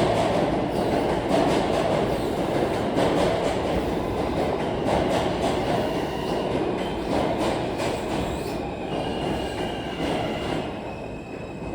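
R160 subway train running through the station, wheels clacking over rail joints with a steady rumble that slowly fades. A thin high whine comes in near the end.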